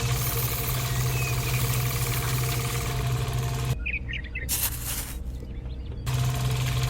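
A small motor running steadily with a low hum and a fast, even rhythm; it cuts off abruptly about four seconds in and starts again about two seconds later. A few short bird chirps are heard over it.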